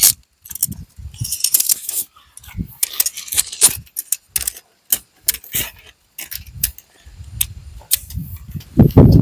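Irregular run of sharp clicks and clinks, as of small hard objects being handled. A heavier low knock comes near the end.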